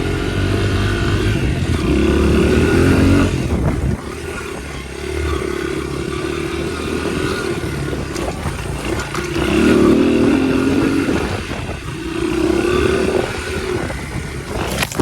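Dirt bike engine being ridden, revving up and easing off several times in repeated swells.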